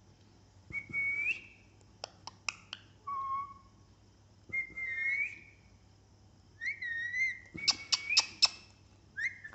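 Pet parrot giving a series of short whistled calls, some wavering in pitch, with sharp clicks between them and a quick burst of clicks near the end.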